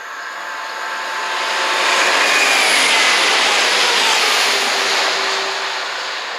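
Chiltern Railways diesel multiple unit passing through the platform. The rush of wheels and engine swells to its loudest a few seconds in and then fades as it draws away, with a whine that falls in pitch as it goes by.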